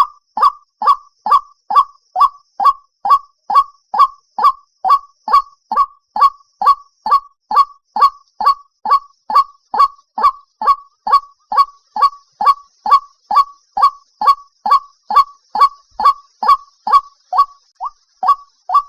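White-breasted waterhen calling: a single short 'kook' note repeated over and over at an even pace of about two a second, each note dropping slightly in pitch. It is a recorded lure call of the kind played through a trap speaker.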